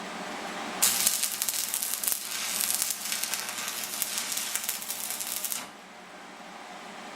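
Stick welding arc burning a 6013 electrode: a dense crackling sizzle that strikes up suddenly about a second in and cuts off sharply near the end, with the rod burned down to a stub.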